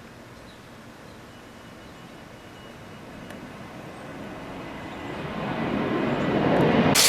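A low rumble builds steadily over a few seconds, then near the end a loud, even hiss of heavy rain and small hail cuts in abruptly.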